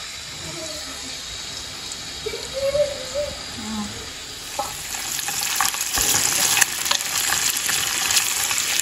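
Diced bacon frying in oil in a pan. A low steady sizzle turns to louder crackling and popping from about halfway through.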